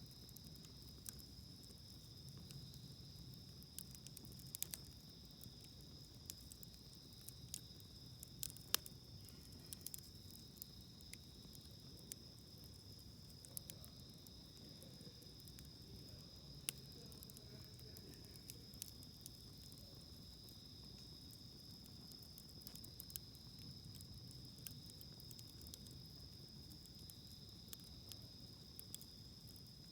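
Wood campfire crackling with sparse sharp pops, the loudest about nine seconds in, over a steady high-pitched chorus of insects.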